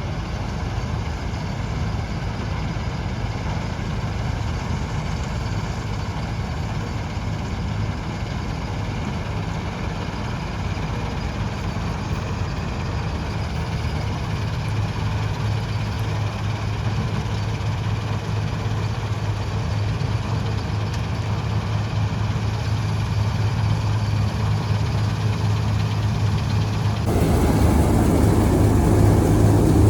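Preet 987 combine harvester's diesel engine running steadily with a deep, even drone while it works through wheat, slowly getting louder. Near the end the sound suddenly grows fuller and louder, with more rushing noise over the drone.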